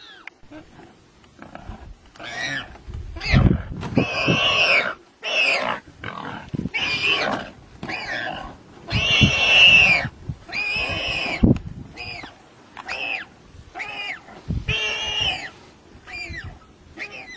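An animal crying out again and again, about once a second, in loud, harsh calls that bend in pitch. The calls are shorter and higher near the end. They are the cries of an animal caught in a struggle with a predator.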